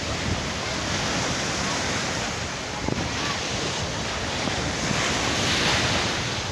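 Sea waves washing on a shore with wind buffeting the microphone: a steady rushing that swells a little about five seconds in.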